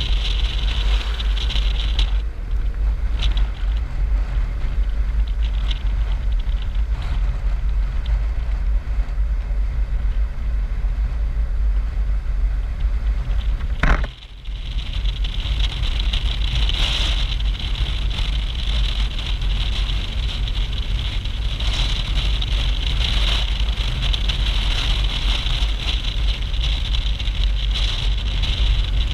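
Motorcycle riding at speed: steady engine and road noise under heavy wind rumble on the microphone, broken by a sharp click and a brief dip about 14 seconds in.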